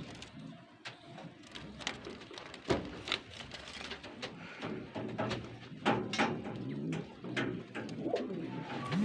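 Pigeons cooing low, among scattered sharp taps and clicks.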